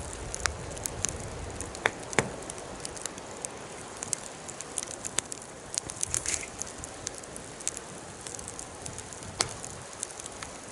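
Wood fire crackling, with irregular sharp pops over a steady low hiss; the loudest pops come about two seconds in.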